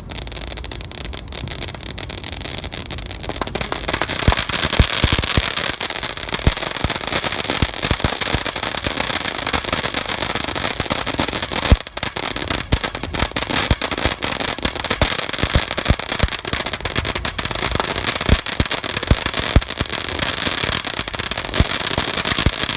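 A "Mad Monkey" consumer firework going off in a long, dense run of crackling pops and bangs. It grows thicker a few seconds in, with a brief gap about halfway through.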